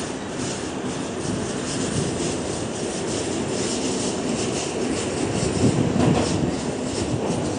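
An R46 subway car running on the rails: a steady rumble with rapid clicking from the wheels, swelling louder about six seconds in.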